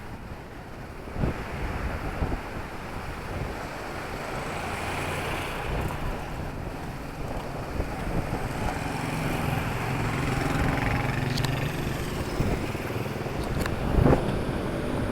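Town street traffic ambience: a motor vehicle's engine hum builds over the middle of the clip against steady street noise, with a short knock near the end.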